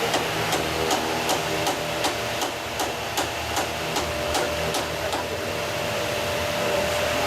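A machine running with a steady hum and a regular ticking, about two to three ticks a second.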